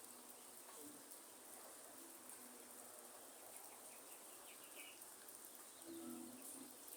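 Faint rainforest ambience: a dove cooing in short low notes, the clearest pair about six seconds in, over a steady high hiss of light rain, with a few small bird chirps.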